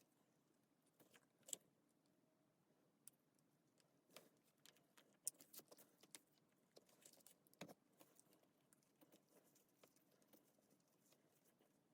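Near silence broken by scattered faint clicks and taps at irregular intervals.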